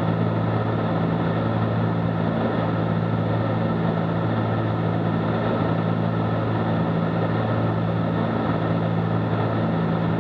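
Cessna 310Q's twin piston engines and propellers running steadily in flight, heard from inside the cabin as a constant drone with a few steady low tones.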